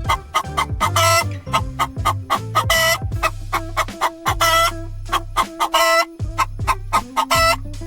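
Rapid series of short animal calls, several a second, over steady background music.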